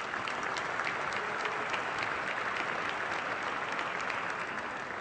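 Audience applauding: many hands clapping in a steady, dense round that fades near the end.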